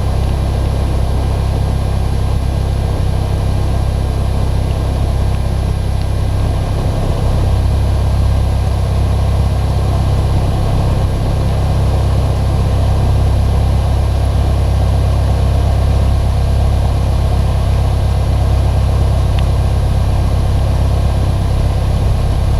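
Cessna 152's four-cylinder Lycoming O-235 engine idling steadily as a constant low drone, heard from inside the cockpit.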